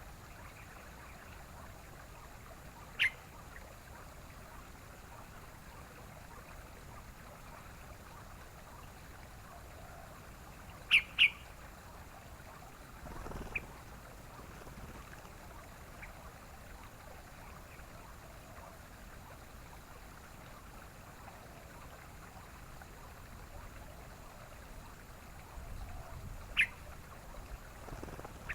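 Yellow-vented bulbul giving short, sharp call notes: one about three seconds in, a quick double note around eleven seconds, a faint one soon after, and another near the end, over a steady background hiss.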